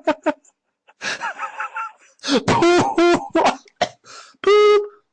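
A cartoon character's voice making wordless vocal sounds: a breathy gasp, a quick run of short pitched syllables, then one short held note near the end.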